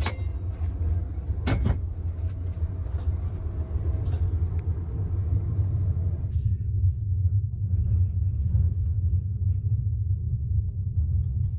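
Steady low rumble of a moving vehicle, with a brief knock near the start; the higher hiss above it drops away about six seconds in, leaving the low rumble alone.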